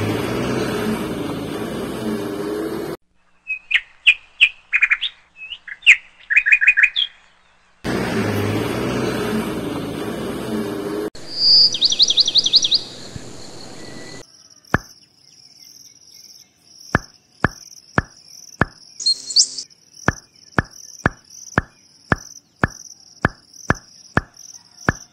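A sequence of separate sounds. An engine runs with a wavering pitch for about three seconds. Bird chirps follow, then the engine again, then a fast trilling chirp, and finally a run of sharp clicks, roughly one a second, over a thin high steady tone.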